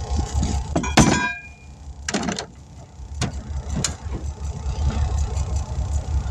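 A sharp metallic clank with a brief ring about a second in, then a softer knock and two short clicks, over the steady low rumble of an idling engine.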